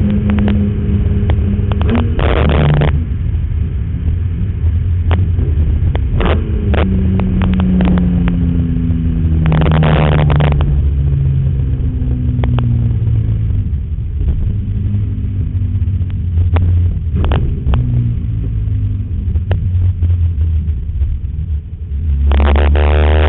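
BMW E46 M3's straight-six engine driven on a race track with a continuous low rumble. Its pitch falls slowly over several seconds at a time as it slows, broken by short loud surges of engine noise about 2, 10 and 23 seconds in.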